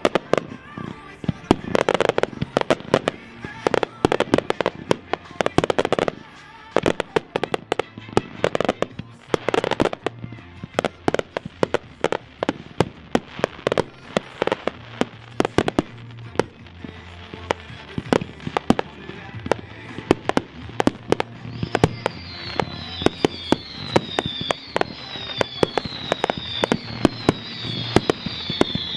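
Consumer firework cakes firing in a rapid finale barrage, a dense run of bangs and crackling breaks. Near the end a string of whistling shots joins in, about one falling whistle a second.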